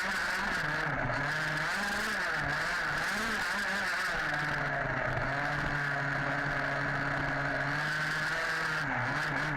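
Small two-stroke petrol engine of a 1/5-scale HPI Baja 5B RC buggy, heard close from an onboard camera, its revs dipping and rising several times, then held steady at high revs for about four seconds before dropping again near the end.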